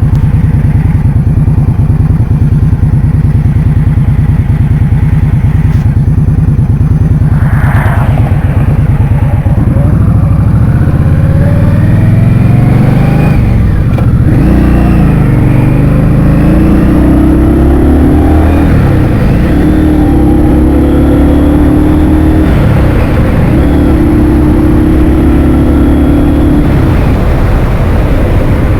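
Heavy wind noise buffeting the microphone on a moving motor scooter, with the scooter's engine rising and falling in pitch as it speeds up and slows down from about ten seconds in.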